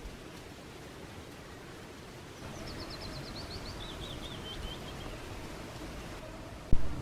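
A songbird sings one short song: a fast run of high notes that steps down in pitch, over a steady outdoor hiss. Near the end comes a single sharp low thump, the loudest sound.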